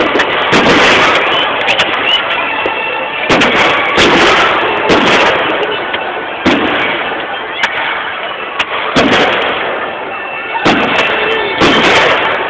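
Fireworks display: a string of shells bursting with loud bangs every second or two, with sharp crackles in between.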